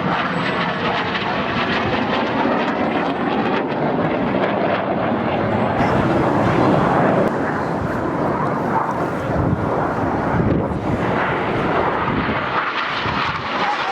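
Jet engines of BAE Hawk T1 display jets, with Rolls-Royce Adour turbofans, running loud as the aircraft fly past, loudest about halfway through and easing a little afterwards.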